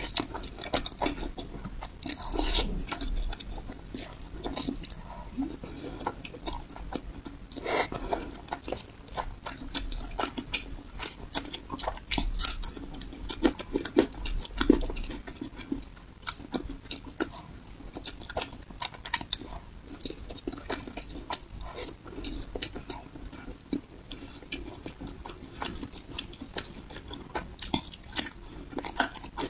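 Close-up chewing and biting of fatty pork belly, with a dense, irregular run of short mouth clicks and smacks throughout.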